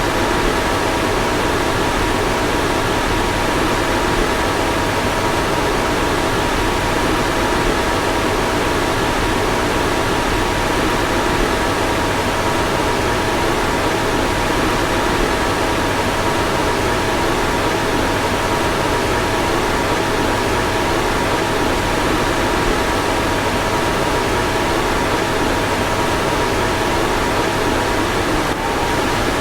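A car's fan running steadily: a constant rush of air with a faint, even whine through it.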